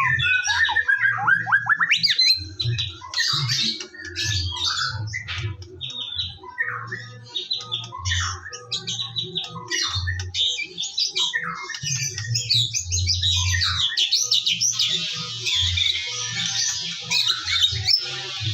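White-rumped shama (murai batu) singing a long, varied song of rapid whistles, trills and harsh chattering notes, densest near the end.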